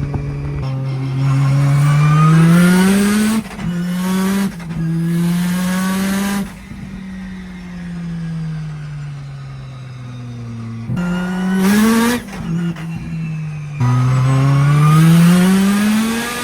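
Turbocharged 620 hp drift car's engine heard from inside the car, pulling hard up through the gears with sudden drops in pitch at each quick shift. It eases off and winds down for a few seconds in the middle, then accelerates hard again.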